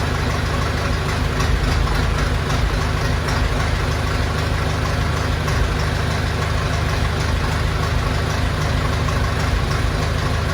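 SAME Corsaro 70 tractor's diesel engine idling steadily, still cold just after a 0 °C start.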